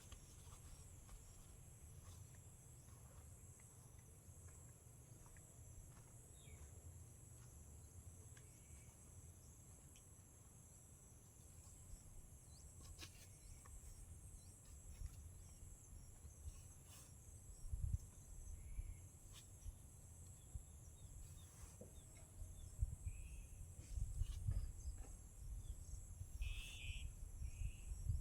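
Countryside ambience dominated by a steady high-pitched insect chorus. A few short bird chirps come near the end, and low rumbles and thumps grow louder in the second half.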